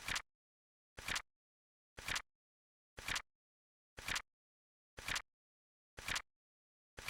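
Flip-clock flip sound effect ticking evenly about once a second, each a short double click, a light snap followed at once by a louder one, with silence between.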